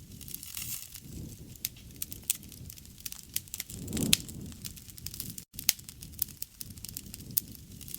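Wood fire burning: a steady run of sharp crackles and pops over a low flame rumble. The rumble swells about halfway, with a loud pop at its peak, and the sound cuts out for a split second soon after.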